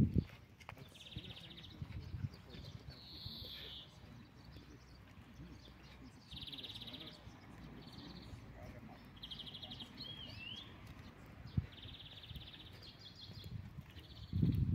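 Small birds chirping in short, rapid trills repeated every second or two, with a brief warbling phrase about ten seconds in.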